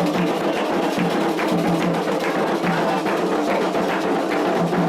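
Candomblé ceremonial drumming: hand drums played in a steady, fast rhythm with a sharp, clacking percussion part.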